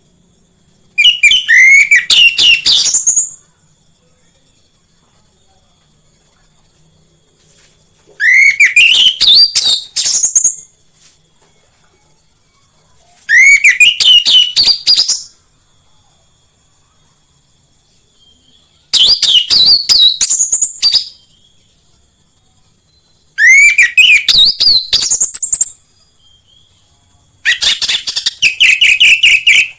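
Orange-headed thrush (anis merah) singing six loud phrases a few seconds apart, each about two seconds of quick, rising, whistled notes, played as a lure to set caged birds singing. A faint steady high hiss lies under the song.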